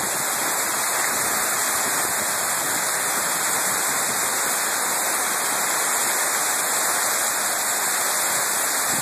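Heavy tropical-style downpour: dense rain falling steadily, without a break.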